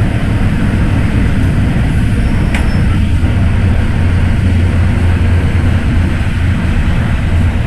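MTR M-Train electric multiple unit running, a loud steady rumble of wheels and traction equipment with a low hum, with one brief sharp tick about two and a half seconds in.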